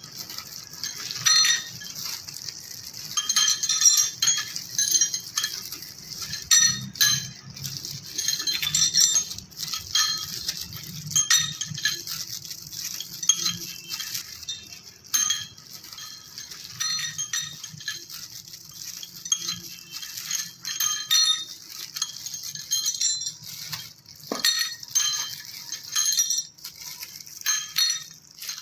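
Metal parts clinking and ringing against each other in irregular strikes, some in quick runs, over a faint low hum.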